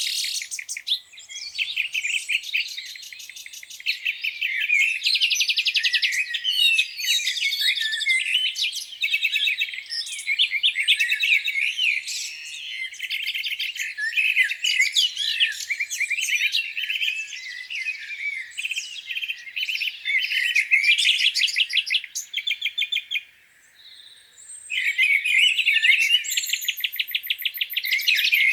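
A spring dawn chorus of several songbirds singing at once: overlapping chirps, whistles and fast trills, briefly thinning about three quarters of the way through before picking up again.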